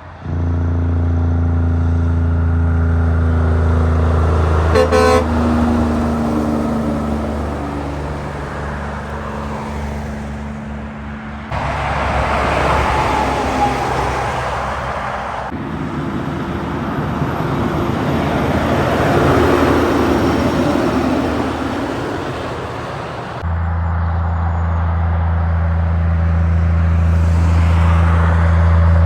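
Heavy trucks on a highway. A steady low engine drone gives way abruptly to a long rushing swell of tyre and engine noise as a truck passes, about ten seconds long, then the steady drone returns.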